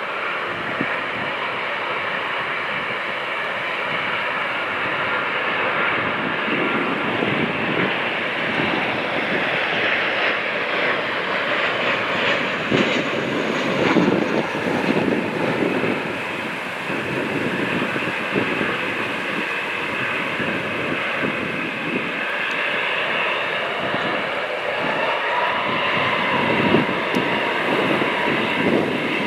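Boeing 787-9 Dreamliner's GEnx jet engines running: a steady rush of jet noise with high whining tones over it that drift slowly in pitch.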